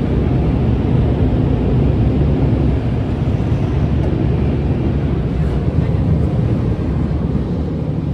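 Loud, steady rushing roar of conveyor car wash tunnel machinery, heard from inside the car, starting to fade near the end.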